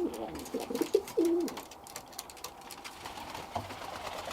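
Birmingham roller pigeons cooing, several coos in the first second and a half, then quieter with faint scattered clicks.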